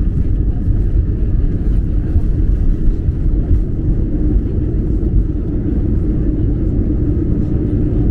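Steady low rumble of engine and airflow noise inside the cabin of an airliner on its way in to land.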